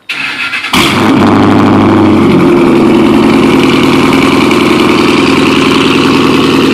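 Car starter cranking for under a second, then the engine catches and runs at a loud, steady cold-start idle through a full Roush cat-back exhaust with muffler deletes and no catalytic converters. The idle note steps down slightly about two seconds after it fires.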